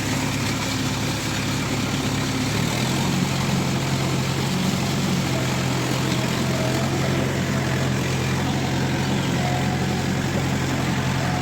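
Trakstar 550 tractor's diesel engine running steadily under load while pulling a rotavator through mud. Its note shifts slightly about three seconds in and then holds steady.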